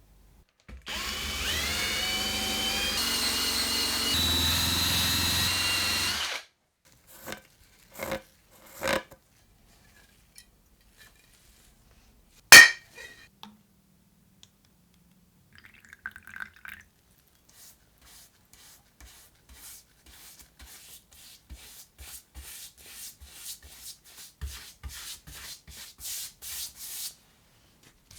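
A small power tool runs for about five seconds, its whine rising as it spins up, then stops. A few knocks and one sharp click follow, then a long run of short rubbing strokes, two or three a second.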